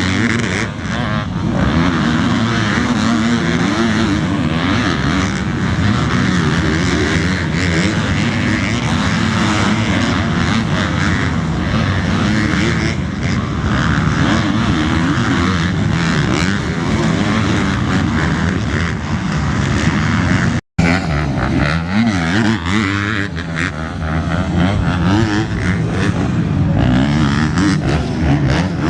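Several motocross bikes racing, their engines revving up and down in overlapping, wavering pitches. The sound cuts out for an instant about two-thirds of the way through, then carries on.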